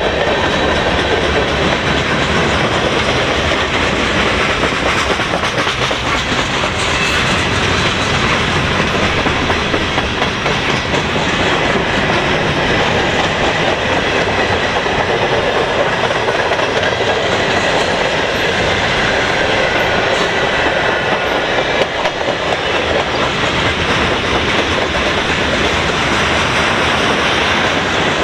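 Freight cars of a long CN freight train rolling past at about 25 mph: the steady, loud noise of steel wheels on the rails, with no pauses.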